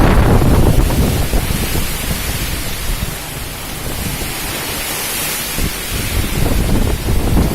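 Strong wind gusting and buffeting the microphone during heavy rain, over a steady hiss of rain. The heaviest gusts come in the first second and again near the end.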